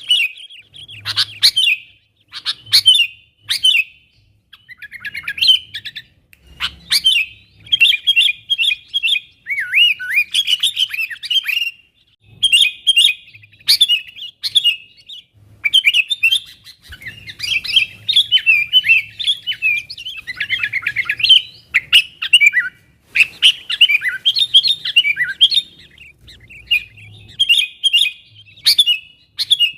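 Sooty-headed bulbul calling excitedly in loud, rapid chattering phrases of short whistled notes, each phrase a second or two long with brief pauses between.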